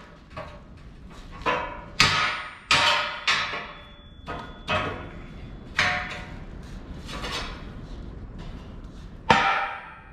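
Steel clanking: an irregular series of sharp metal-on-metal strikes, each ringing briefly, the loudest about two seconds in and again near the end, as steel fork-frame parts are knocked and set together.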